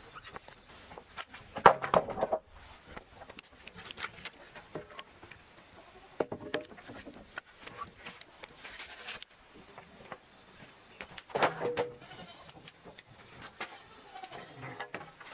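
Two drawn-out animal calls, one about two seconds in and one near the end, over scattered short clicks and knocks.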